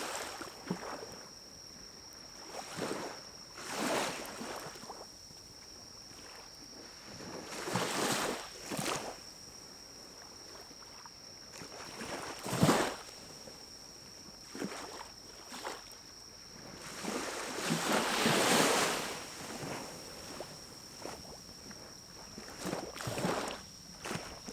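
Pine cones burning in a small wood-burning camp stove, the flames flaring in irregular whooshing swells with a sharp pop about halfway through. A faint steady high-pitched tone sits under it throughout.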